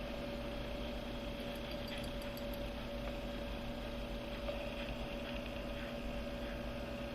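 A steady hum with two constant tones under an even hiss; no barks, yelps or other distinct sounds stand out.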